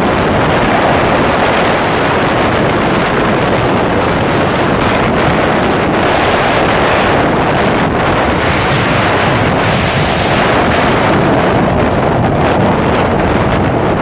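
Strong wind buffeting the microphone in a windstorm, a loud, steady roar of noise.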